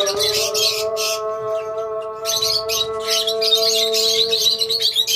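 Lovebirds chirping in rapid, scratchy bursts, over one long held sung note from a muezzin's call to prayer that dips slightly in pitch and then holds steady.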